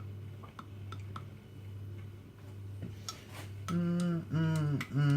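Faint, sparse ticks and clinks of a spoon against a mug while hot chocolate is being mixed, over a steady low hum. From about three and a half seconds in, a man hums a few held notes.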